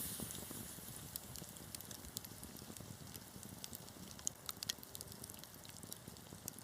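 Wood fire in a fireplace crackling, with irregular sharp pops over a soft steady hiss of burning, a few louder pops a little past the middle.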